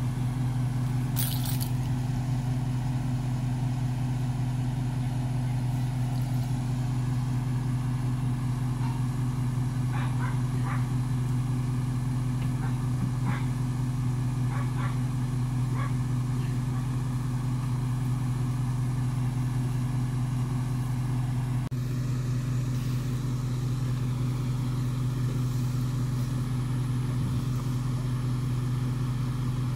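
2007 Ram 1500 pickup's engine idling steadily at a constant pitch, not being revved, while the truck sits stuck in mud.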